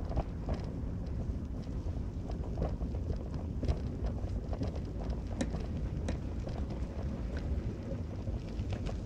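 A car driving, heard from inside: a steady low road rumble with scattered small knocks and rattles throughout.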